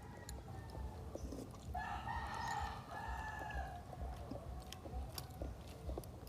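A rooster crowing: one long call of about two seconds near the middle, with a fainter crow trailing off at the start.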